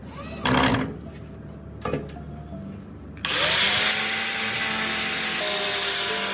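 A power tool starts about three seconds in, its whine rising to speed and then running steadily over a loud hiss, as in abrasive work on the blade. Two short scraping sounds come before it.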